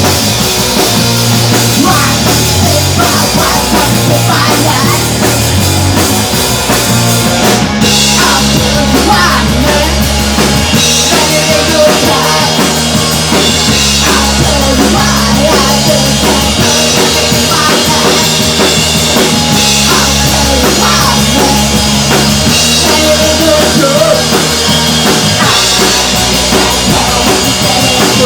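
Punk rock band playing: pounding drum kit under guitars and bass. The song moves into a new section about eight seconds in.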